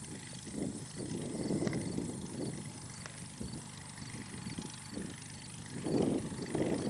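Cessna 172's four-cylinder piston engine and propeller running steadily, with wind buffeting the microphone in irregular gusts. It gets louder near the end.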